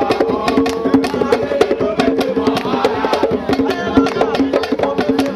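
Traditional African percussion music: fast, steady drum strokes, about five or six a second, over a held pitched tone.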